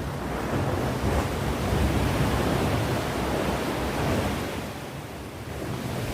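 Sea waves breaking and washing on the shore: a continuous rush of surf that swells and eases, dipping about five seconds in and building again near the end.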